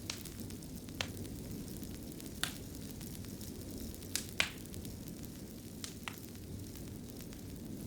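Wood fire burning in a fireplace: a steady low rumble with sharp crackling pops roughly once a second, the loudest a little over four seconds in.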